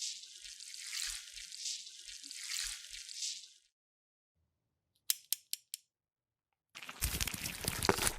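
Toy packaging being opened and handled: a hissy, pulsing rustle for about three and a half seconds, then four quick sharp clicks, then a burst of crackling near the end.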